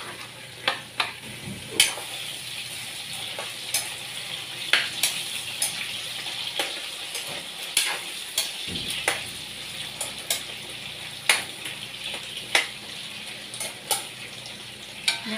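Food sizzling in an aluminium wok, with a metal spatula clinking and scraping against the pan at irregular intervals.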